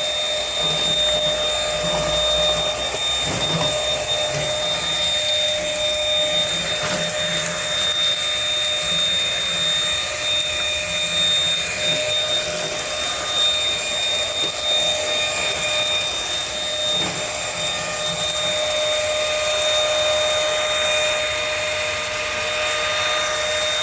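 Dirt Devil Simpli-Stick stick vacuum running steadily while vacuuming, a constant high whine over a rushing hiss of air.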